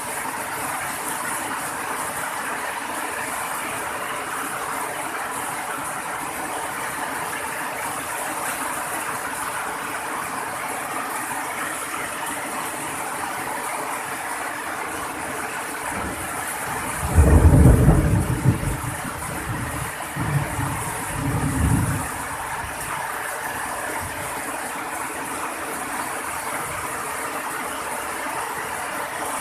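Steady rain falling, an even hiss. About seventeen seconds in, a loud, deep rumble breaks in for a second or so, followed by two weaker rumbles a few seconds later.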